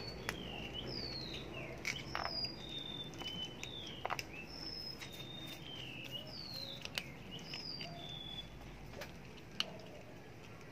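Songbirds singing: a steady run of short whistled notes, many sliding down in pitch, with a few sharp clicks scattered through.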